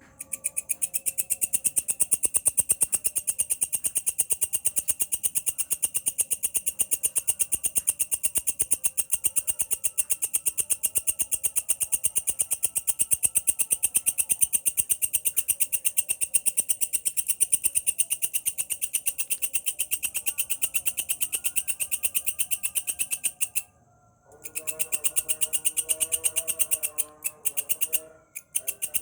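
Walang kecek, a grasshopper-type insect, stridulating: a loud, steady, very fast pulsing trill that breaks off for about a second some 24 seconds in and stutters briefly near the end. Fainter, lower warbling notes run beneath it.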